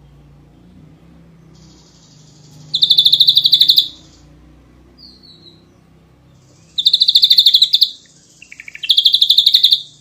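Ashy drongo singing: three loud, rapid rattling trills of about a second each. A short thin whistle falls between the first two, and a faint high buzz runs under them.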